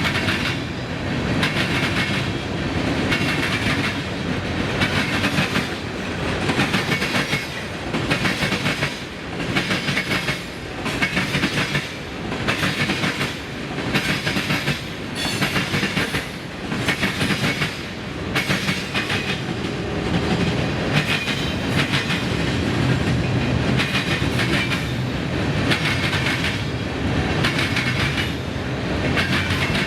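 A freight train rolling past, its wheels clattering over the rail joints in a steady rhythm of about one clatter a second, over a continuous rumble.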